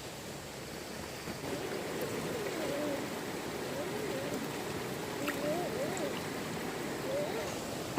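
Steady rush of flowing stream water. From about one and a half seconds in, a faint wavering voice-like sound rises and falls over it.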